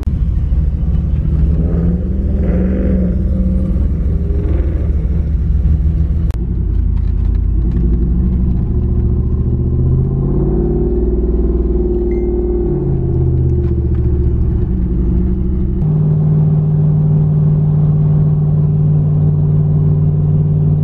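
Engine and road noise heard from inside a moving vehicle's cab. The engine's pitch climbs and falls back between about ten and thirteen seconds in, then settles into a steady drone from about sixteen seconds.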